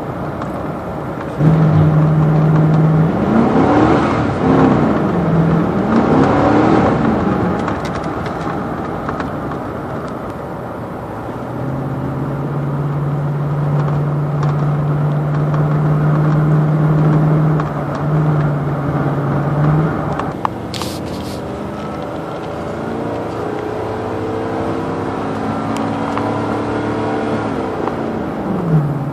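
2005 Chevrolet K1500 pickup driving, its engine pitch climbing and dropping with the automatic transmission's gear changes, then holding steady. Near the end the engine speed falls in a shift that skips second gear, going from first to third: a sign of transmission failure.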